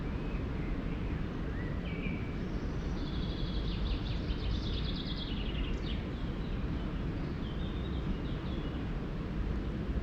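A songbird sings a few short notes, then a quick trilling phrase about three seconds in, with a few softer notes near the end, over a steady low outdoor background noise.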